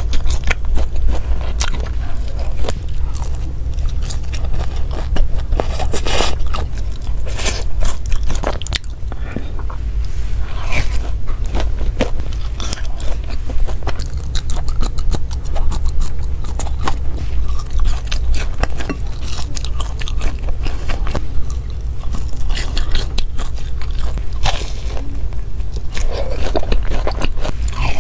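Close-miked eating sounds: repeated crunchy bites and chewing, with many short sharp crackles throughout and a steady low hum underneath.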